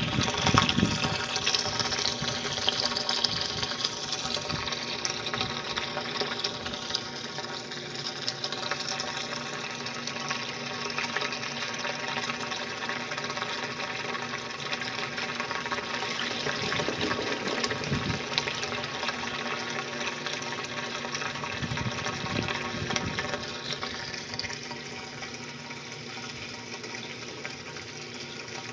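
'Faz tudo' top-loading washing machine running, water rushing and churning in the tub over a steady motor hum, loudest at the start and easing off gradually.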